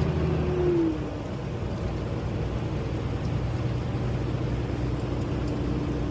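Semi-truck engine and road noise heard from inside the cab while driving, a steady drone whose pitch and loudness drop slightly about a second in, as the engine eases off, then hold steady.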